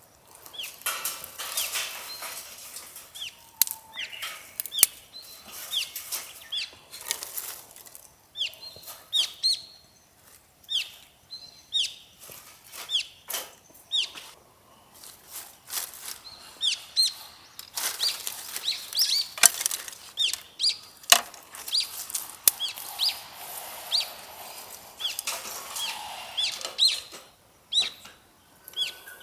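Small birds chirping in short, repeated, downward-sweeping notes, mixed with sharp clicks and crackles throughout, a few of them loud.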